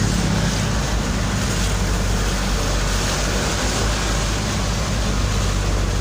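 Steady engine and road noise of a vehicle driving along, a continuous low rumble with a hiss over it.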